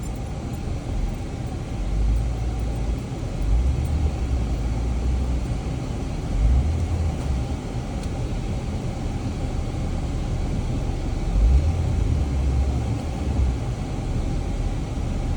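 Jeep driving slowly along a rutted off-road trail: steady engine and drivetrain rumble that swells in several low surges as it works through the ruts.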